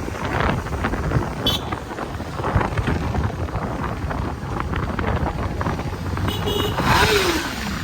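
Road and wind noise on a moving vehicle in traffic, a steady low rumble. Near the end comes a short horn toot, then a falling tone.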